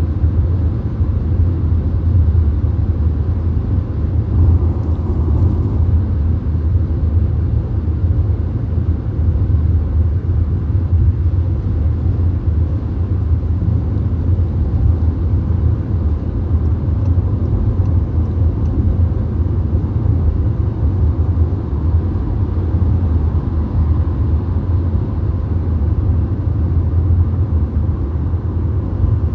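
Steady low rumble of a VW Golf driving on a motorway, heard from inside the car: tyre and road noise with engine drone, even and unbroken.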